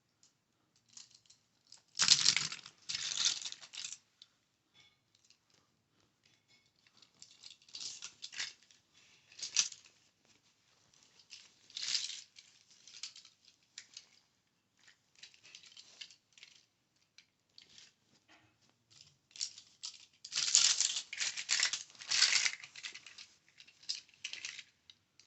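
Fingernails tapping, clicking and rattling on a small die-cast Hot Wheels-style toy car. The sound comes in bursts, loudest about two seconds in and again around twenty seconds in, with lighter taps between.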